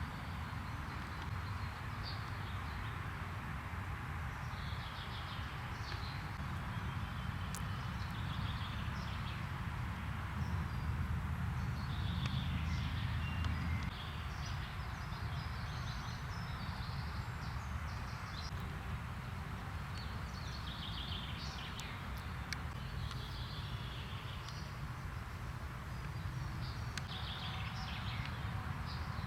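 Birds chirping and calling in short scattered phrases over a steady low rumble and background hiss of outdoor ambience.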